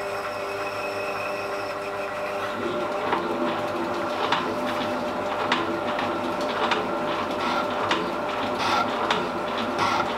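Metal shaping machine running, its ram stroking back and forth with a sharp tick about every second over a steady motor hum, taking a light first cut on a keyway in a trial blank.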